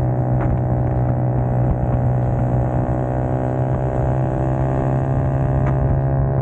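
Small four-stroke single-cylinder 4-mini motorcycle engine running steadily at constant revs, its pitch holding level throughout.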